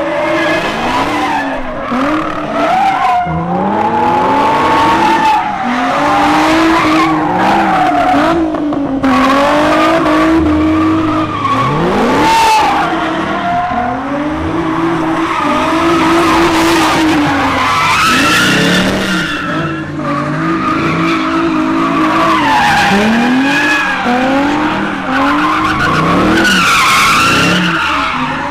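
Cars spinning their tyres at a street takeover, with tyres squealing and engines revving up and down, one sharp rev climbing about twelve seconds in.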